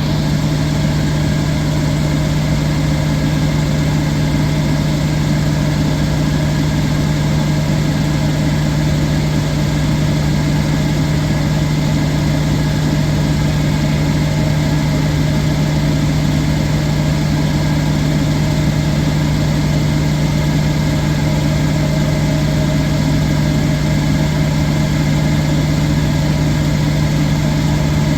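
Electrolux professional washer running steadily in the last two minutes of its cycle, a loud constant motor hum with an even mechanical whir.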